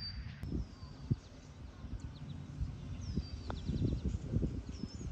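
A bird gives a short, high, downward-gliding whistle several times, a second or more apart, over an uneven low rumbling noise.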